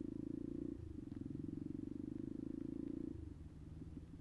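Kuba Black Cat motorcycle's engine running with a fast, even low pulsing that eases off about three seconds in to a quieter, lower hum.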